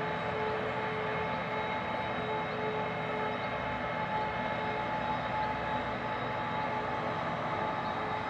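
Heavy machinery running steadily: a constant drone with a steady, unchanging whine over it.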